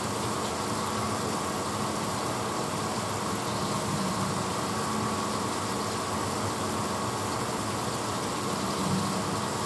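1986 Hotpoint Potwasher dishwasher running mid-cycle: a steady, unchanging hum and wash noise.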